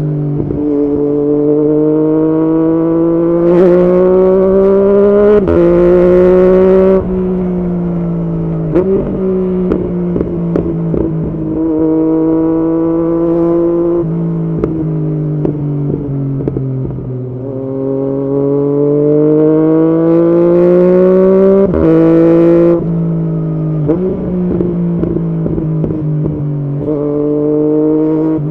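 2016 Yamaha MT-09's inline-three engine through an Arrow exhaust, accelerating through the gears: the pitch climbs, drops at each upshift, then falls away as the throttle closes, with popping and crackling from the exhaust on the overrun. It pulls hard through the gears again a little past halfway, crackles again on lifting off, and starts to climb once more near the end.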